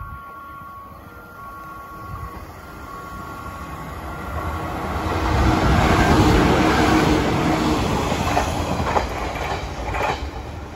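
JNR-era 455 series electric multiple unit passing close through a station. The rumble and wheel clatter swell up, peak a few seconds in and then ease, with sharp clicks of wheels over rail joints near the end. A repeating two-note electronic chime sounds at the start and fades out.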